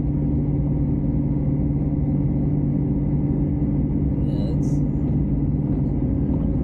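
Heavy-duty pickup truck's engine running at a steady drone, heard from inside the cab, with the truck in four-wheel-drive high pulling up a slight hill.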